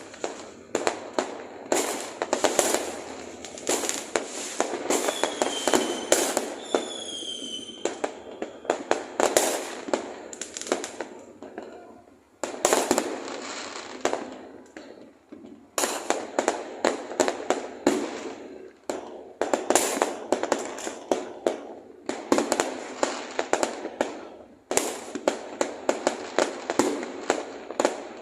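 Fireworks going off in a dense, continuous barrage of rapid bangs and crackles, with a short whistle about six seconds in.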